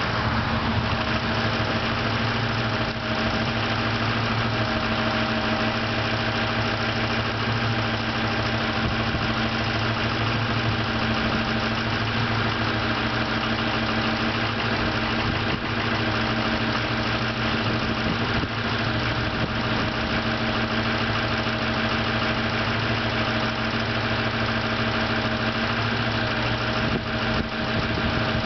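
2003 Ford F-350's 6.0 PowerStroke turbo-diesel V8 idling steadily after a cold start, through a straight-piped open exhaust. One cylinder runs a little uneven, which the owner puts down to a worn exhaust lobe on the camshaft.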